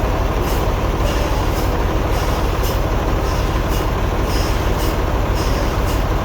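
Sawmill machinery running steadily with a continuous low drone, with a faint hiss that repeats about once a second.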